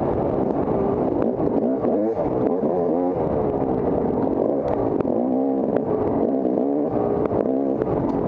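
Off-road dirt bike engine being ridden hard, its pitch rising and falling over and over with throttle and gear changes, with scattered clicks and clatter over it.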